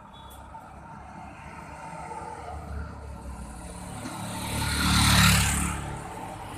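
A motor vehicle's engine running, growing louder to a peak about five seconds in, then easing off.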